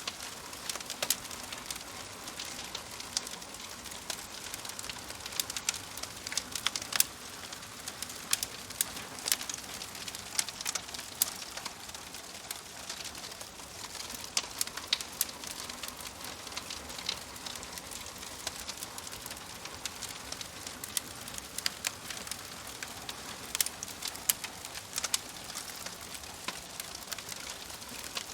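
Wood fire crackling in a fireplace: a steady soft hiss with frequent sharp, irregular pops and snaps.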